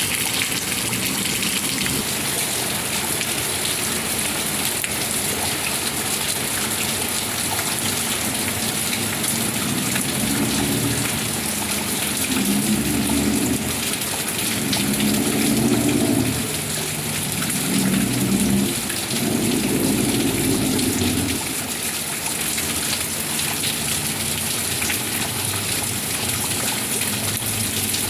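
Steady rain falling. A low rumble swells in the middle, from about ten to twenty seconds in.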